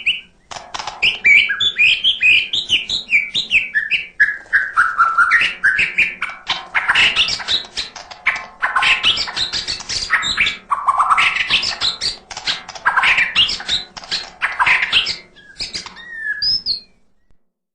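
White-rumped shama (murai batu) singing a long, varied song of rapid chirps and sliding whistled notes, phrase after phrase. It stops about 17 seconds in.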